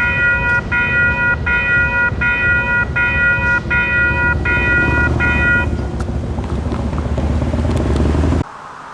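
Railroad grade-crossing bell ringing at an even pace, a little over once a second, until it stops a bit past halfway, over a heavy low rumble that builds and then cuts off abruptly near the end.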